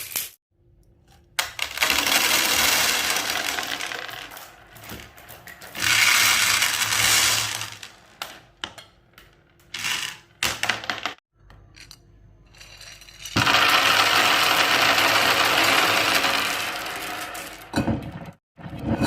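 Marbles rolling and clattering down a wooden Haba slope track: stretches of steady rolling rattle broken by sharp clicks, starting and stopping suddenly several times.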